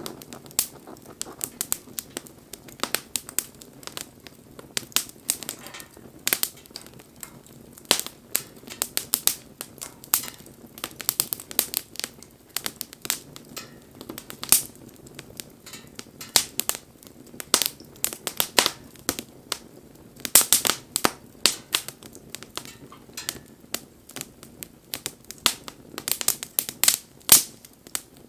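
Wood fire crackling, with irregular sharp pops and snaps, a dense cluster of them about twenty seconds in, over a faint low steady hiss.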